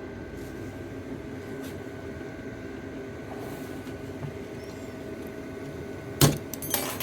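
A circlip being fitted into a steel bearing housing with circlip pliers: a steady hum, then one loud sharp metal click about six seconds in and a few lighter clicks after it.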